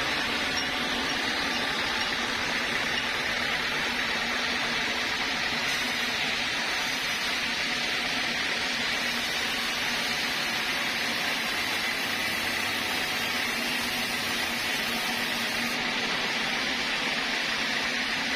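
Sawmill saw machinery running steadily: a continuous whirring noise with a faint steady high tone.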